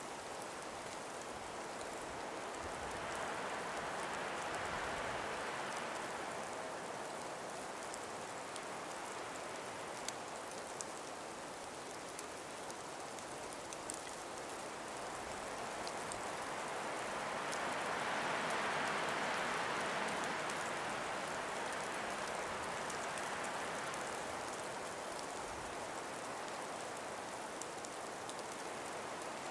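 A gentle breeze through ice- and snow-laden forest trees, a soft even rush that swells twice and eases off again. A few faint scattered ticks sound in between.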